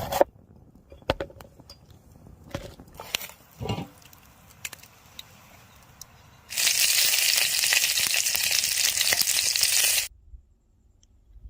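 A few scattered clicks and crackles, then a loud steady hiss lasting about three and a half seconds that cuts off suddenly.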